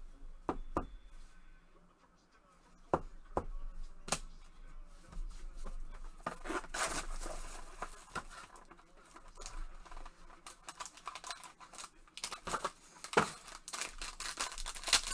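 Trading card packaging being torn open and crinkled, with a series of sharp clicks and taps as the cards and cardboard are handled.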